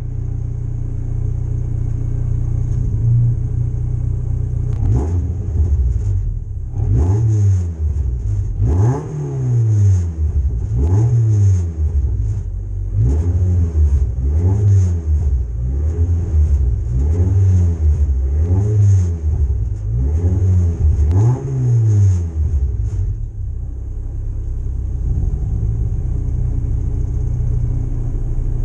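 Mazda MX-5 race car's four-cylinder engine, heard from inside the cabin, idling while stationary and then revved in about nine quick throttle blips a second or two apart, each rising and falling in pitch, before it settles back to a steady idle near the end.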